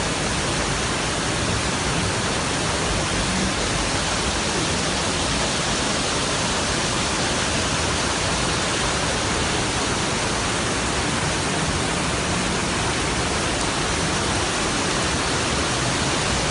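Steady, loud rushing of water, unbroken and even throughout.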